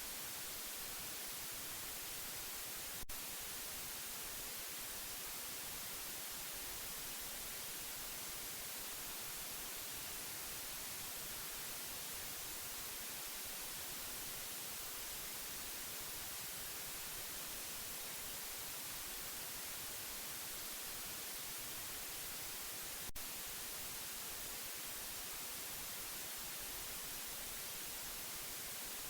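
Steady white noise hiss for lulling a baby to sleep, with two brief clicks, one about three seconds in and one near the end.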